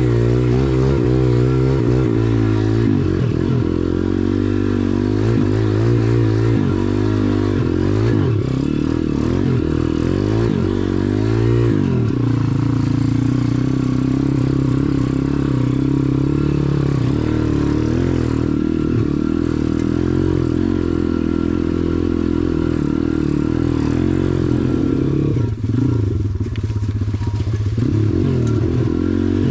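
SSR dirt bike engine being ridden, its revs rising and falling over and over through the first dozen seconds, then running steadier, with quick revving again near the end.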